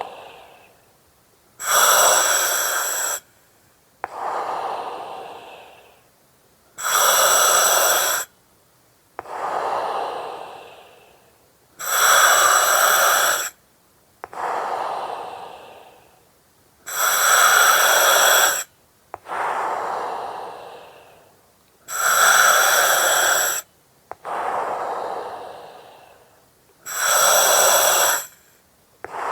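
Slow, regular breathing through an oxygen mask, about one breath every five seconds. Each breath in is a loud hiss through the mask that starts and stops sharply. Each breath out is softer and fades away.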